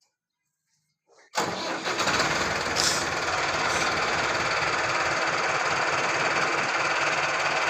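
Tractor engine running loud and steady, cutting in abruptly after near silence about a second and a half in.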